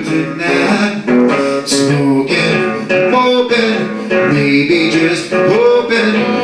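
Blues band playing an instrumental passage between vocal lines, led by guitar, with sustained notes that bend in pitch.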